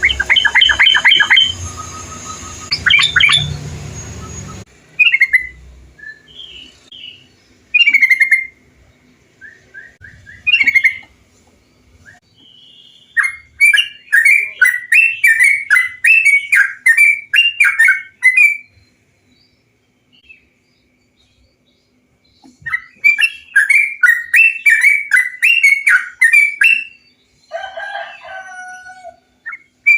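Yellow-vented bulbul (trucukan) song: short bubbly phrases every couple of seconds, then two long runs of rapid chattering notes, one about halfway through and one near the end. In the first few seconds a steady hiss lies under the song.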